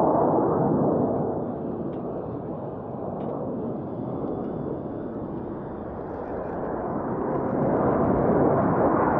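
Jet engine noise from Blue Angels F/A-18 Super Hornets: a heavy, steady rush that eases off about a second and a half in and swells again from about seven seconds in.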